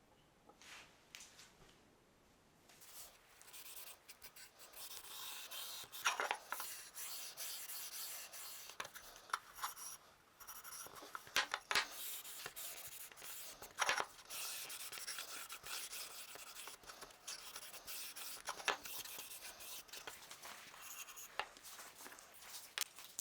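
Hand tool scraping and rubbing on wood: a steady, scratchy rasping with sharp clicks now and then, starting about three seconds in.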